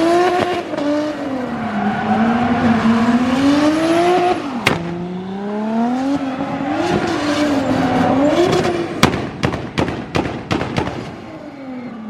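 A drift car's engine revving up and down again and again over tyre squeal as the car slides. About nine seconds in comes a quick string of sharp cracks, and near the end the engine note falls away.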